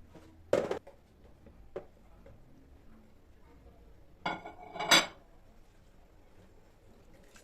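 Kitchenware being handled: a sharp knock, a light tap, then two clinks that ring briefly.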